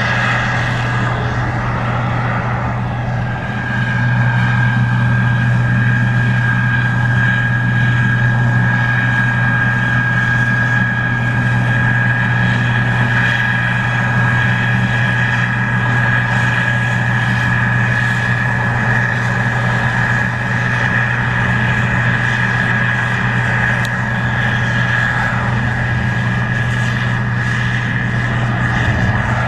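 Case IH 2144 Axial-Flow combine running steadily while harvesting corn: a continuous low engine drone with a steady high whine over it, getting a little louder about four seconds in.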